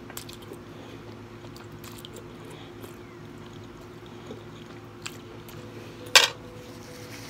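Close-miked chewing and mouth sounds of a person eating a pork, broccoli and noodle dish, with soft scattered clicks and one short, louder smack about six seconds in, over a faint steady hum.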